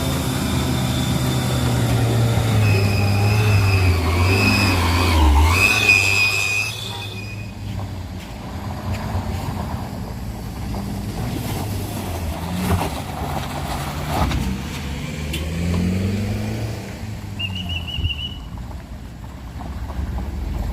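Vehicle engine labouring up a steep incline, with its pitch rising as it revs. For a few seconds early on a high wavering whine rides over it, loudest about six seconds in.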